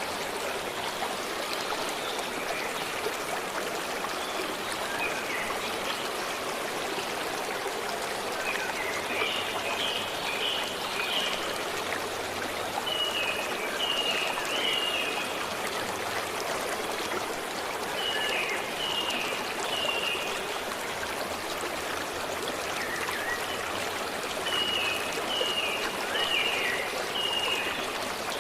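A stream flowing steadily, with a small bird calling over it in short runs of three or four high chirps, repeated every few seconds.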